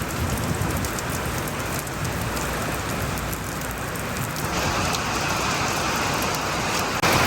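Steady rain falling and pattering on surfaces, growing louder about halfway through and again just before the end.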